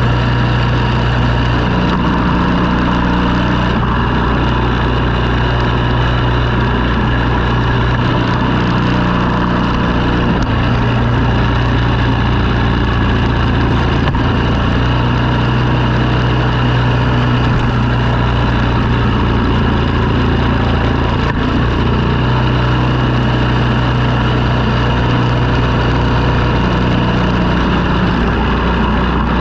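Engine running steadily, its pitch stepping up and down a little every few seconds.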